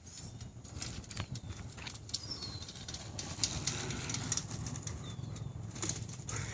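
Outdoor ambience: a steady low rumble with scattered light clicks, and a few short, faint bird chirps.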